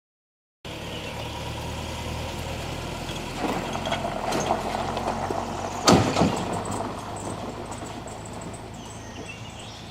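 An engine running steadily at idle, with a sharp clatter about six seconds in.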